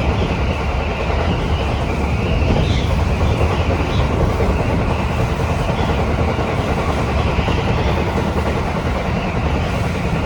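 Electric commuter train running, heard from inside the passenger car: a steady rumble from the wheels and running gear. Over it a higher wind noise from strong typhoon wind wavers up and down.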